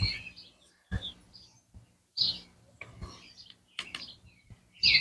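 Songbirds chirping on and off in short separate calls, with a few faint clicks and knocks from handling.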